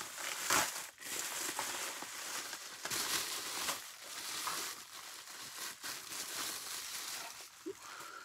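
Packing material crinkling and rustling as it is handled and pulled off a vacuum cleaner motor, in irregular strokes with a few sharper crackles.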